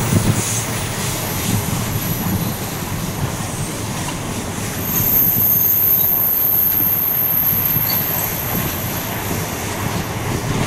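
Passenger train carriages rolling past on a curve, with a steady rumble and clatter of wheels on rail. From about five seconds in, a high, thin wheel squeal rises over it, the flanges squealing through the curve.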